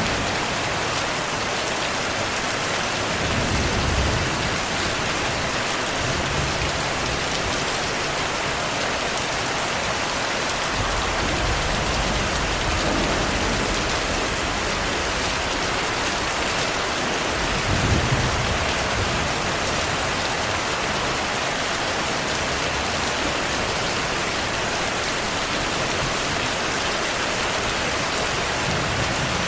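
Steady heavy rain falling, with low rumbles of distant thunder swelling briefly about four seconds in and again around eighteen seconds.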